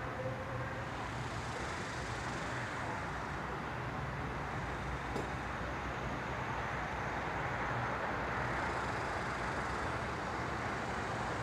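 Distant chorus of Neotibicen superbus (superb dog-day cicada), a high buzzing that swells twice, over a steady low hum.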